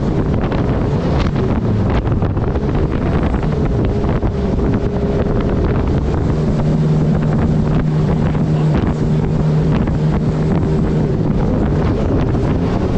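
Turbocharged Honda engine of a mini jet boat running steadily under way, its pitch holding nearly constant and coming through strongest in the middle of the stretch. Wind buffets the microphone and rushing water adds a steady hiss.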